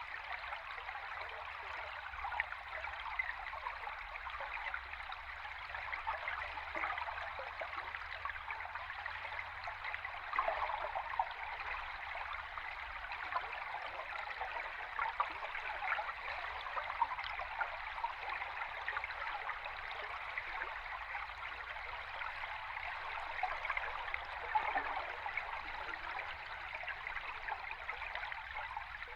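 A river stream heard underwater: continuous water noise full of fine crackles and small bubbling ticks, over a faint low hum.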